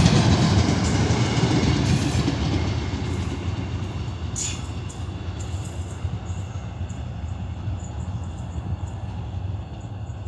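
Passenger train coaches rolling past on the rails, a low rumble that fades as the train moves away. A brief high-pitched squeak comes about four and a half seconds in.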